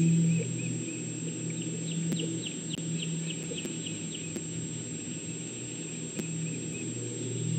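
A bird calling: a quick series of about ten short down-slurred notes, roughly four a second, that stops partway through. A steady low hum runs underneath.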